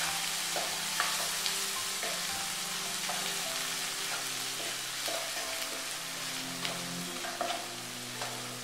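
Onions and green chillies with ginger-garlic paste sizzling in oil in a non-stick kadai as a spatula stirs them, with a few sharp clicks of the spatula against the pan.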